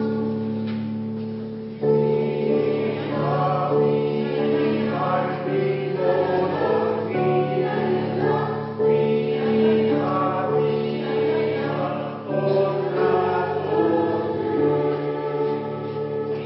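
Polyphonic choir singing held chords in phrases, with a loud new phrase entering about two seconds in.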